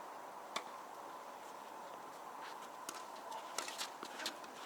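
Faint scattered taps and knocks on a tennis court between points, a tennis ball bouncing and players' footsteps, over a low steady hiss. The sharpest tap comes about half a second in.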